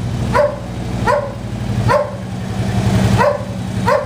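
A dog barks repeatedly, about once every three-quarters of a second, over the steady idle of a 2011 Harley-Davidson Street Glide's V-twin running through Rush slip-on mufflers with 2-inch baffles.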